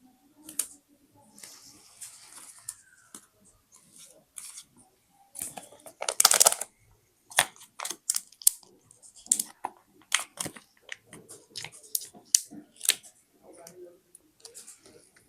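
Paper and stationery being handled in scrapbooking: a string of sharp taps and clicks with light paper rustling, and a louder rustle lasting about a second, about six seconds in.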